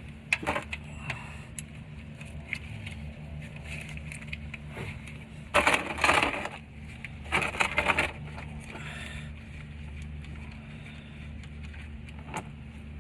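Drain plug of a 2020 Nissan Pathfinder being worked loose with a 14 mm socket: a few sharp metallic clicks, then two loud, harsh rasping bursts about five and a half and seven and a half seconds in, over a steady low hum.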